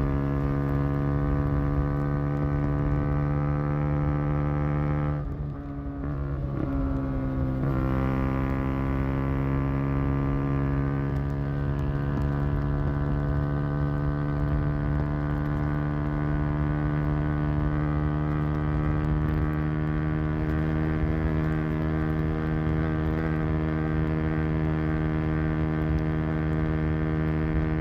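KTM Duke 125's single-cylinder four-stroke engine and exhaust under way, pulling steadily. About five seconds in the throttle eases off for a couple of seconds and the note drops; it then pulls again at slightly lower revs, climbs gradually and settles into a steady cruise.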